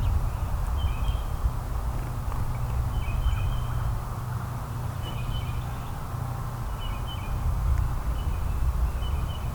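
A small bird gives short, repeated high chirps about every one to two seconds over a steady low rumble.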